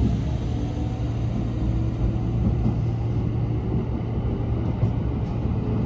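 Hanshin electric train running, heard from inside the passenger car: a steady low rumble and hum of the wheels and running gear as it crosses a steel truss bridge.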